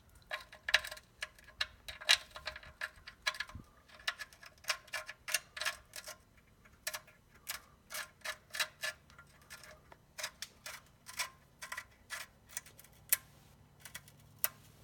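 Irregular run of small metallic clicks and taps, two to four a second, as the oil drain plug of a Mitsubishi 3000GT is threaded back into the oil pan by hand, with sand on the threads.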